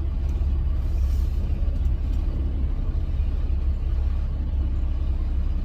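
Steady low rumble of a Freightliner Cascadia semi truck's diesel engine and road noise heard from inside the cab while driving.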